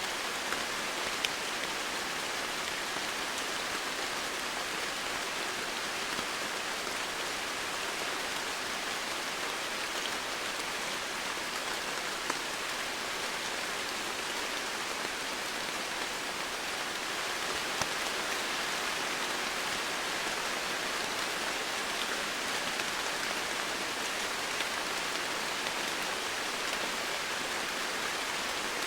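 Steady rain falling, an even hiss of many drops with the occasional sharper drop tick.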